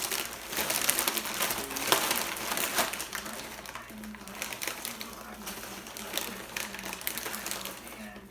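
Chips and their bag crinkling and crunching in quick, irregular crackles as they are handled and eaten, with a faint voice in the background.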